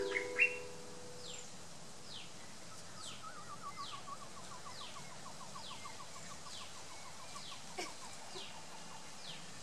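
The song's last guitar chord and voice die away at the start, leaving birdsong: one bird repeats a short, high, falling chirp about once a second, and from about three seconds in another calls a rapid run of lower notes, about six a second, slowly falling in pitch.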